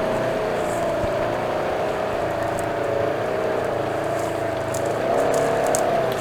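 Side-by-side UTV engine running at a steady throttle, its pitch wavering slightly and rising briefly about five seconds in as more throttle is given.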